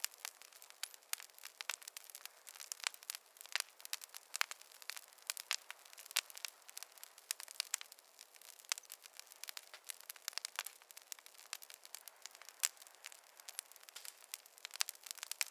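Campfire crackling: a dense, irregular stream of sharp pops and snaps from burning wood over a faint hiss, with no low rumble.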